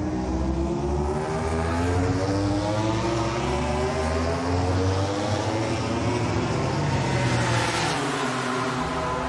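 MotoGP racing motorcycle engines at racing speed, their pitch rising and falling repeatedly.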